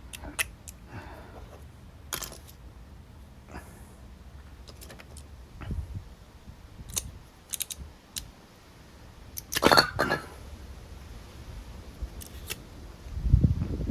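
Scattered clicks and scrapes of hand tools on small metal carburetor parts, with a louder clatter of clicks about ten seconds in, as a carburetor piece that is stuck together is worked at without coming apart.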